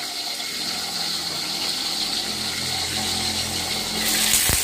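Shallots, chillies and tomatoes frying in hot oil in a covered wok: a steady sizzle that gets louder about four seconds in as the lid is lifted, with a soft knock of the lid.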